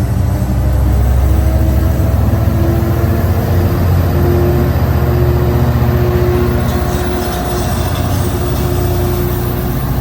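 EMD F59PHI diesel-electric locomotive under power as the train accelerates away. It is a loud, low, steady drone with a few held tones that rise slightly in pitch over the first few seconds.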